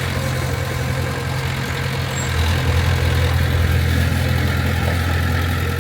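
Heavy equipment diesel engine running steadily, its low rumble getting a little louder about two and a half seconds in.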